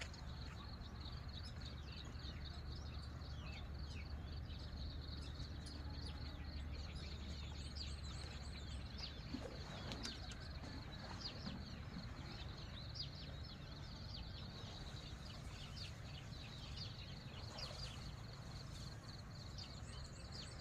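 Many small birds chirping in quick, short falling notes over steady outdoor background noise, with a thin steady high tone underneath.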